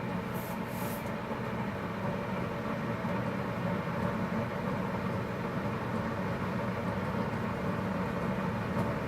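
Keurig K-2550 commercial coffee maker running steadily as it heats its water, a low, even rumble and hiss that grows slightly louder.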